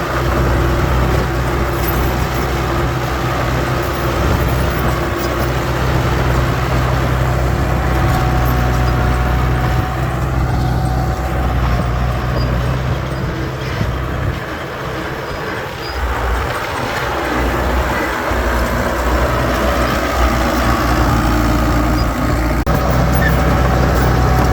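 Heavy diesel engine of earthmoving machinery running steadily, easing off for a few seconds about two-thirds of the way through, then picking back up.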